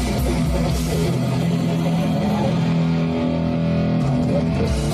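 Punk rock band playing live, with distorted electric guitar chords ringing out over bass. The low end thins out about a second in.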